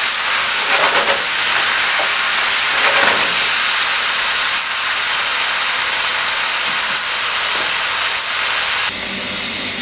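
Curry chicken with potatoes and garbanzo beans sizzling steadily in a stainless steel skillet, stirred with metal tongs at first.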